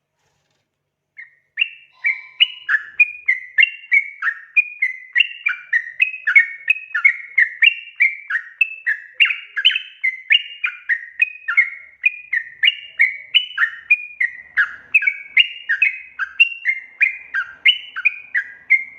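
Yellow-vented bulbul (trucukan) singing a long, fast run of short chattering notes that rise and fall, about two to three a second. The song starts about a second in and stops abruptly at the end.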